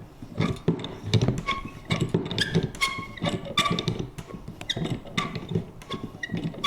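Vintage paper punch working over and over: a quick, irregular run of sharp clicks, about two a second, many with a short metallic ring after them.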